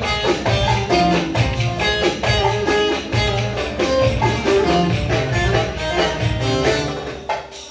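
Instrumental Ankara oyun havası, a Turkish folk dance tune, with a driving, even percussion beat under a plucked-string melody. The music drops away briefly near the end.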